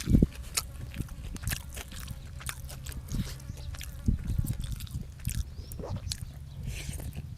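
A person chewing and biting food close to the microphone, with many short wet clicks scattered throughout, over a low steady hum.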